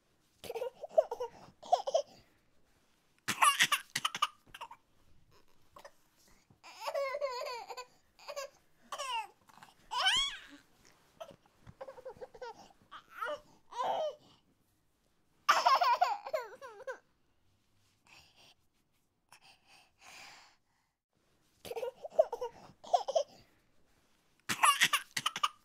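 A high-pitched voice laughing and babbling in short bursts, with near-silent pauses between them and no clear words.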